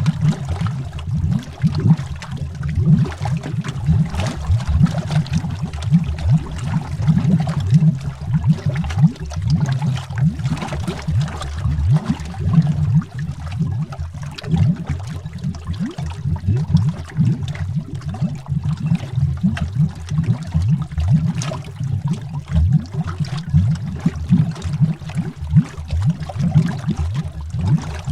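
Underwater bubbles rising in a continuous, irregular stream of low gurgling pops.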